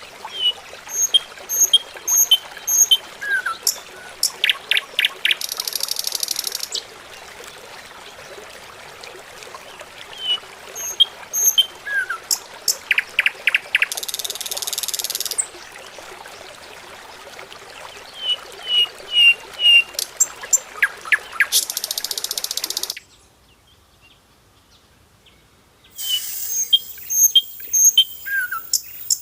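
Birds chirping: clusters of short high chirps and quick falling notes, each followed by a high hiss lasting about a second and a half. The same cycle repeats about every eight to ten seconds, and the sound drops away for about three seconds near the end before starting again.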